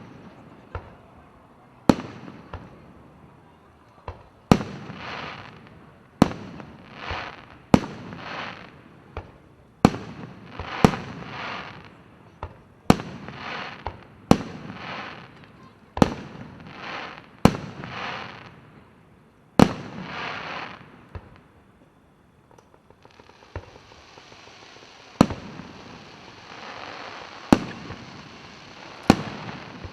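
Aerial fireworks bursting: sharp bangs every second or two, many followed by a fizzing crackle. There is a brief lull about two-thirds of the way through, then the bangs return over a steady crackle.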